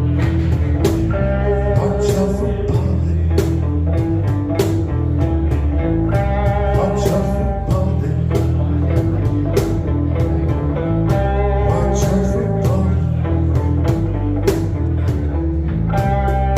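Band playing a slow, bluesy song led by guitar, with a steady beat of drum strikes.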